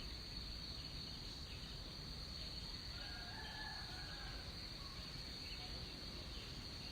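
Balinese rainforest insects, crickets or cicadas, keeping up a steady high-pitched drone. A brief faint bird call comes in about three seconds in.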